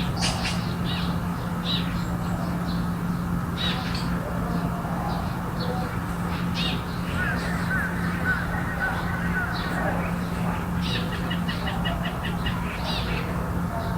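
Garden birds calling in short, scattered calls, with a fast chattering run of calls about three-quarters of the way in. Under them run a steady low hum and a constant background rush.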